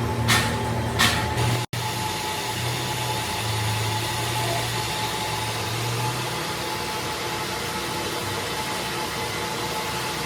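Two sharp knocks, then an abrupt cut to the steady hum of workshop machinery running.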